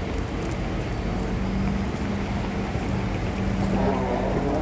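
Steady hum of a Siemens C651 train standing at an open-air station platform, a low tone holding over a background rumble. A faint higher-pitched sound joins about three and a half seconds in.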